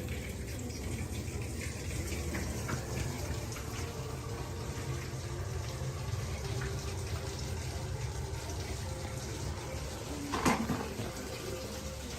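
Water running steadily, with one sharp knock near the end.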